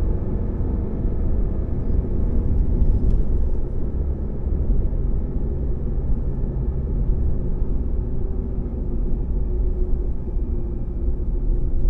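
Steady low rumble of a truck driving along a mountain road, engine hum and road noise running evenly.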